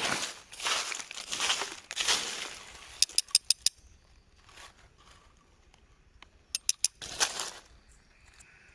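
Crinkling, rustling handling noise in several bursts over the first two seconds, then a quick run of about five sharp clicks. A few more clicks and a short rustle come about seven seconds in.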